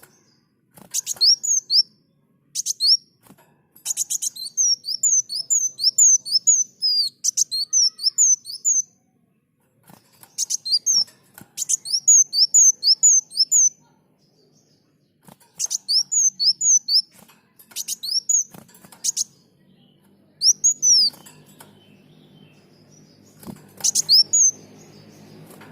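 Kolibri muncang sunbird singing in phrases of fast, high, sweeping chirps, each phrase lasting one to four seconds, with short pauses between them. A faint low hum comes in near the end.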